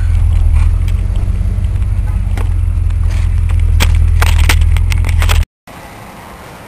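Inside a Ford Galaxie while driving: a steady low engine and road rumble with scattered knocks and rattles. It cuts off suddenly about five and a half seconds in, giving way to a much quieter steady background.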